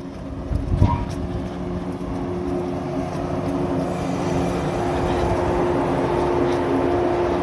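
Shinano Railway 115 series electric train running past at close range: a steady hum over the rumble of wheels on rail, growing louder. A short low thump about a second in.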